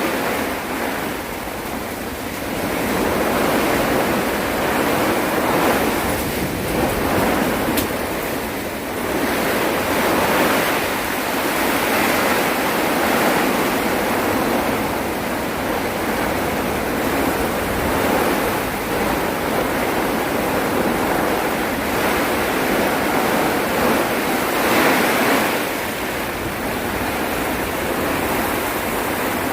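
Heavy rain and strong gusting wind of a storm: a steady rushing noise that swells and eases every few seconds.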